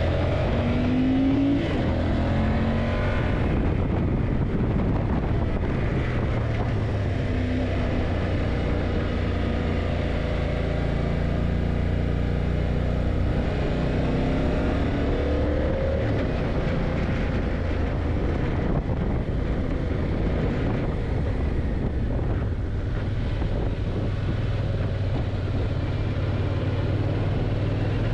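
Yamaha TDM900's parallel-twin engine running under way, rising in pitch several times as it accelerates, over a steady rushing noise.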